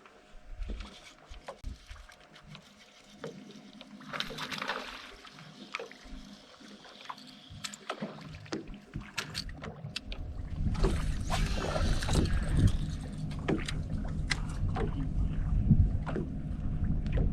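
Bass boat on the water: a steady motor hum with scattered knocks and slaps, then a much louder low rumble from about ten seconds in.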